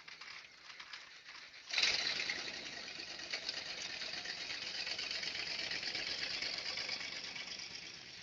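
Steady vehicle engine and road noise that starts abruptly about two seconds in, after a faint start.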